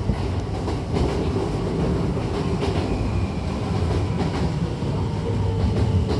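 Hankyu Takarazuka Line electric train running: a steady rumble with clicks of the wheels over rail joints, and a faint whine coming in near the end.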